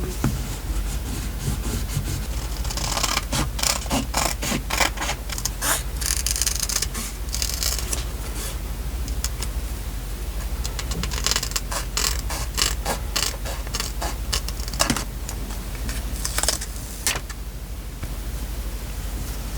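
Paper and stickers being handled for journal decorating: scratchy rustling and scraping in several spells of quick clicks, over a steady low hum.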